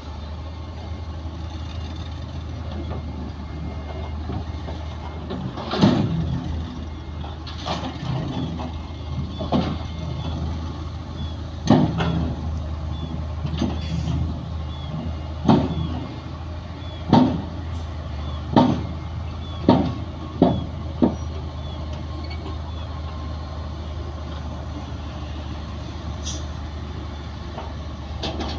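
Bulldozer's diesel engine running steadily under load, with a series of about a dozen loud metal clanks and bangs coming every second or two through the middle, then the engine running on alone.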